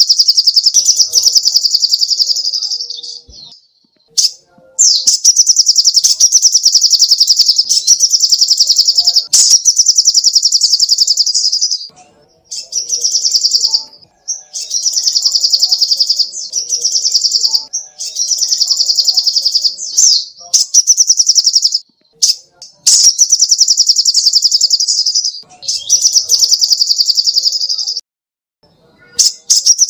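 Little spiderhunter (sogok ontong) singing: fast, high chattering notes repeated many times a second, in loud bursts of a few seconds each with short breaks between.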